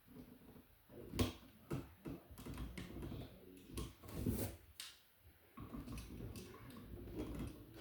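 Scattered light clicks and knocks from tools and parts being handled, about a dozen irregular taps with low rustling between them.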